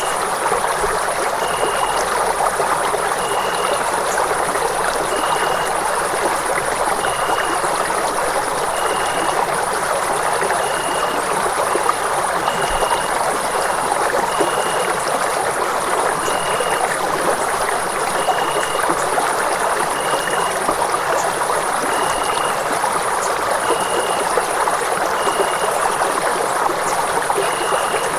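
Running water rushing steadily, an even unbroken wash of water noise. Faint short high tones repeat about every one and a half to two seconds above it.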